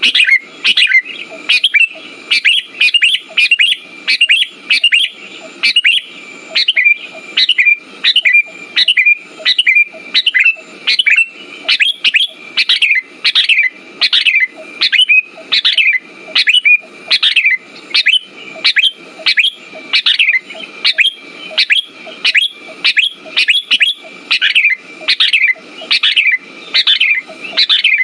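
Sooty-headed bulbul calling over and over, short loud chattering notes about twice a second, each one falling in pitch, with a thin steady high tone running beneath.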